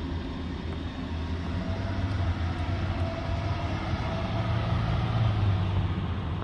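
A motor vehicle's engine running with a steady low hum, growing gradually louder and then fading near the end.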